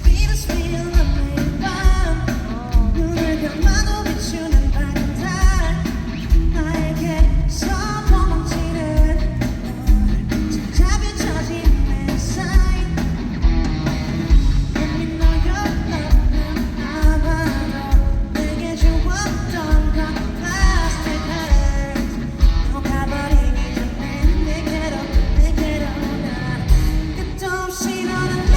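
A live pop-rock song performed by a band, with a male lead singer over a steady drum beat.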